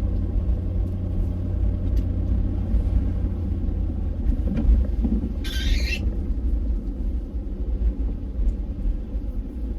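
Plow truck's engine running, a steady low rumble heard from inside the cab. A brief hiss comes about five and a half seconds in.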